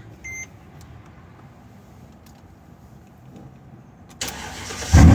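A short electronic beep, then a Mercedes E55 AMG's 5.4-litre V8 is cold-started: the starter cranks for under a second and the engine catches near the end with a sudden loud bark. It then settles into a loud, deep idle through an exhaust with the muffler and resonator deleted.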